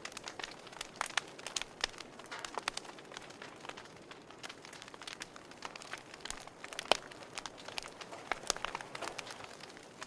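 Wood fire crackling in a fireplace: irregular sharp pops and snaps over a soft hiss of burning logs, with one louder pop about seven seconds in.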